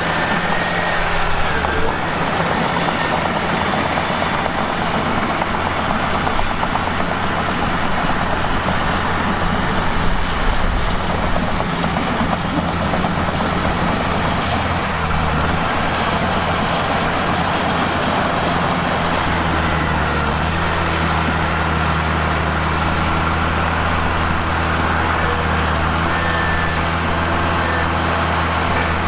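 Mitsubishi bulldozer's diesel engine running steadily, with a low drone that grows stronger about two-thirds of the way through.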